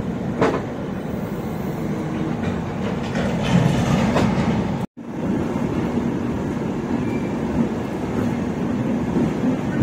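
Train noise: a steady low rumble and hum, with a sharp clank about half a second in and a few more clanks around three to four seconds. The sound cuts out for a moment about five seconds in.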